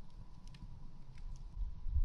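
Campfire crackling, with a few sharp pops over a low steady rumble.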